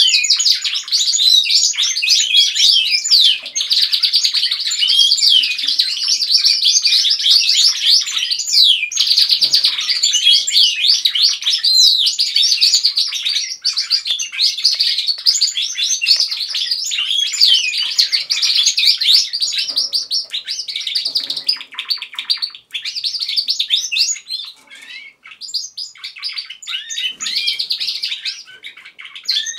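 Several domestic canaries singing together: a dense, continuous stream of fast high trills and chirps that thins out for a few seconds about three quarters of the way through, then picks up again.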